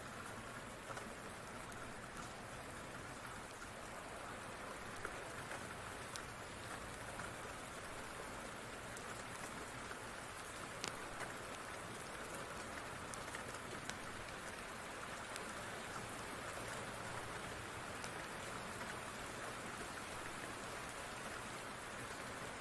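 Steady rain falling, an even hiss with scattered small sharp ticks.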